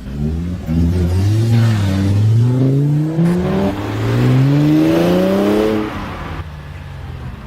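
A car accelerating hard away, its engine note climbing in pitch through the gears with two upshifts, each marked by a brief drop in pitch before it climbs again. It is loud for a few seconds, then falls away sharply as the car leaves.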